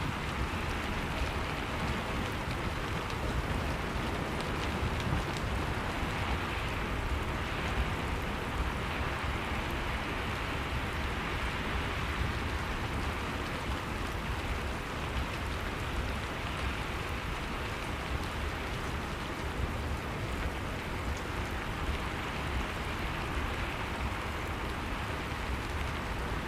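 Steady, continuous rain with a low rumble underneath, with no distinct claps or breaks.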